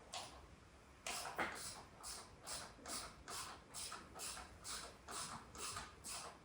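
A hand tool worked in quick, even back-and-forth strokes on the dirt bike during engine removal, starting about a second in and repeating about two and a half times a second, a scratchy ratcheting sound.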